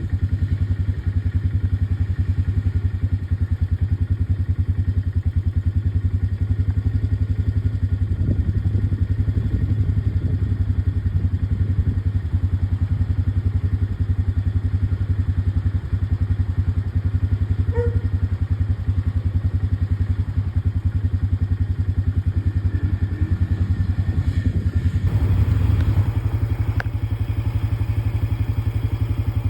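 ATV engine running steadily as the quad is ridden along. Its note shifts up slightly a few seconds before the end.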